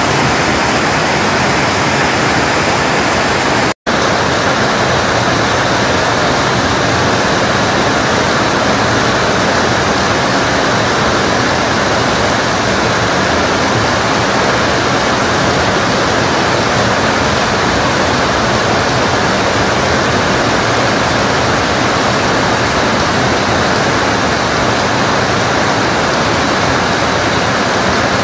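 Heavy rain pouring down steadily in a sudden tropical downpour, with a split-second dropout to silence about four seconds in.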